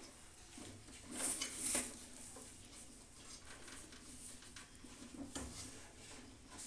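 Light handling noises from working on the microwave oven's metal parts: rustling and scraping, with two louder scrapes a little after a second in and a smaller one about five and a half seconds in.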